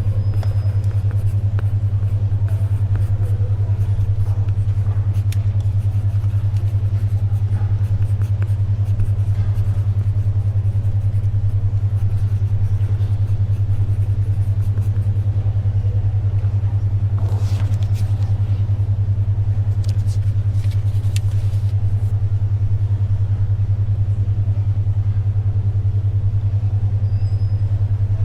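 A steady low hum of a 10.2 Hz alpha-wave brainwave beat tone, pulsing rapidly and evenly. Faint library ambience sits under it, with soft paper rustles a little past halfway.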